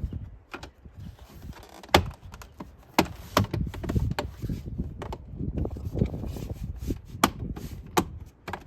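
Center console armrest cover being handled and fitted back into place: a string of sharp clicks and knocks with handling noise between them.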